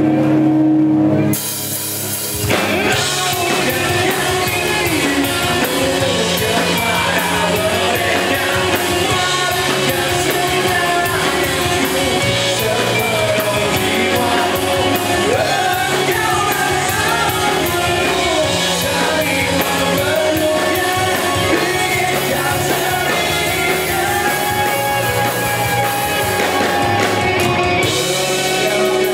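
Rock band playing a song live, with a singer and drums. There is a brief drop about two seconds in, then the full band comes back in.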